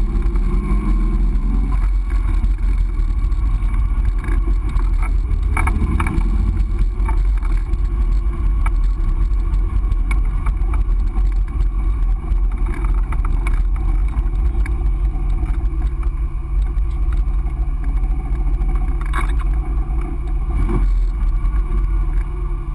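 Triumph TR6's fuel-injected 2.5-litre straight-six engine running, with the engine note varying in the first half and holding steadier in the second half, and a few brief knocks.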